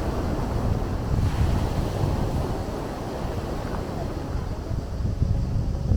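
Sea waves washing steadily, with wind buffeting the microphone in a low rumble.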